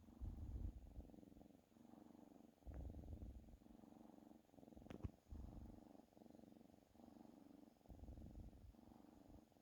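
Domestic cat purring softly, in steady cycles of about one a second as it breathes in and out. A faint click comes about five seconds in.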